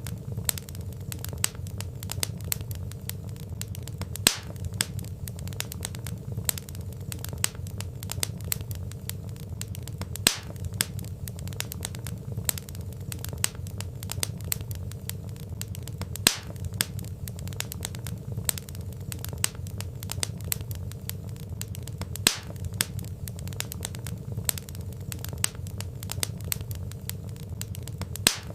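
Burning logs crackling: a steady stream of small crackles over a low rumble, with a louder sharp pop about every six seconds.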